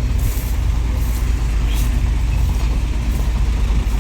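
Farm tractor engine running steadily with a deep, even rumble, while the tractor sits stuck on ground made slippery by heavy rain.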